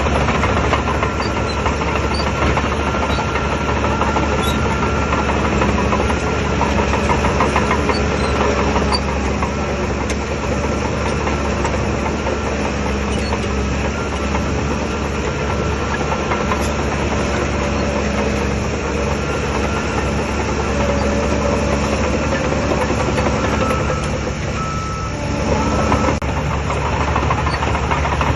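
Heavy diesel engine of a Shantui DH17 bulldozer running steadily while working, dipping briefly near the end before picking back up.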